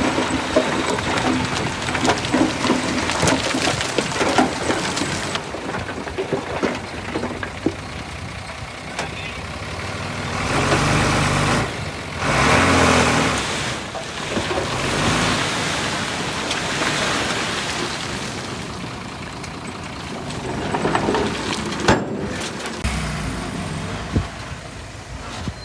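Heavy diesel earthmoving machinery running, with knocks and rattles. The engine revs up twice near the middle.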